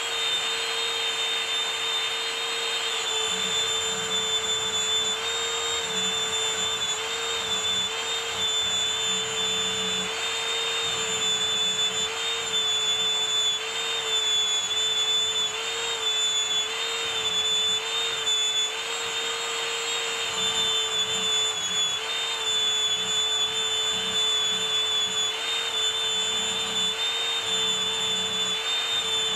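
Small high-speed electric power tool motor running continuously with a steady whine. Its pitch dips and recovers slightly as the load on it changes, over a rough grinding hiss.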